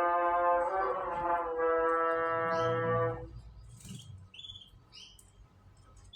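A loud, held horn-like note with a slight drop in pitch about one and a half seconds in, cutting off about three seconds in. Short, high chirps from canaries follow.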